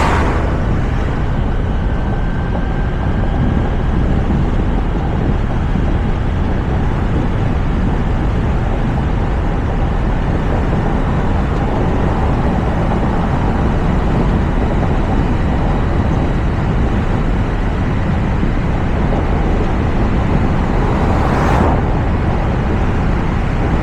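Steady road and wind noise of a moving Toyota RAV4, picked up by a camera mounted on its roof, with tyre rumble heaviest in the low range. A brief swell of noise comes about 21 seconds in.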